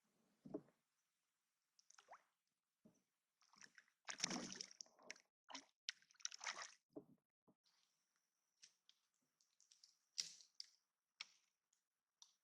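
Faint, scattered wet squishing and dripping sounds, with a busier cluster about four seconds in.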